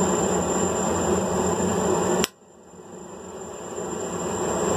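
Steady fan-like rushing hum of shop machinery, such as a forge or blower, with a thin high whine. About two seconds in, a sharp click and the noise cuts off suddenly, then swells back up over the next two seconds.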